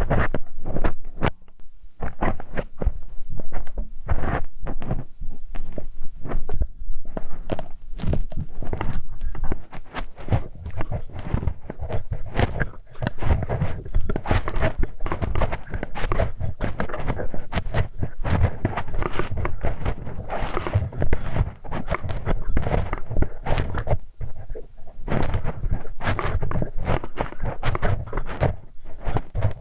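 Close-miked ear-cleaning ASMR: a tool scraping, rubbing and knocking inside a microphone's ear, with many sharp clicks and dull thuds and no letup.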